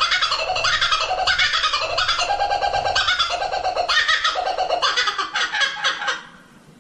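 A songbird singing a fast, varied, chattering song of rapid notes, fading out near the end.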